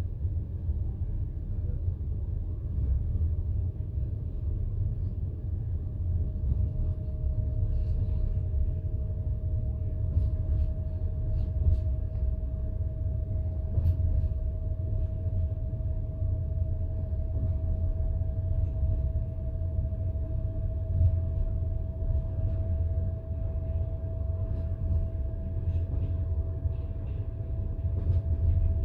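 Passenger train coach running along the line, a steady low rumble of wheels on rails with occasional faint clicks. A thin steady whine comes in about six seconds in and holds.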